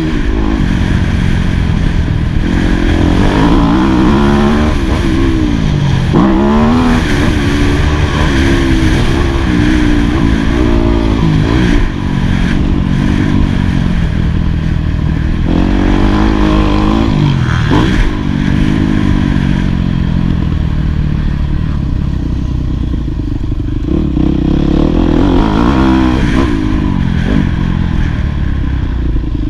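2018 Yamaha YZ250F's 250 cc single-cylinder four-stroke engine being ridden hard on a motocross track. It revs up and falls back again and again as the rider works the throttle and gears.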